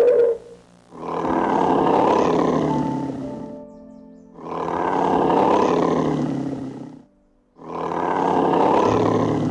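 A large animal calling three times, each call a long noisy rasp of two to three seconds with short pauses between, over soft background music.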